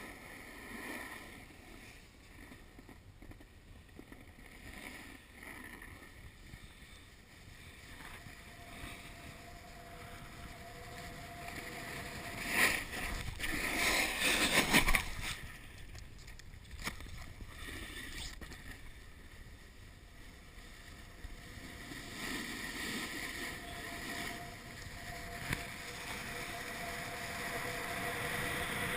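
Snowboard sliding and scraping over snow, a steady rushing noise that swells into a louder scrape for a few seconds about halfway through.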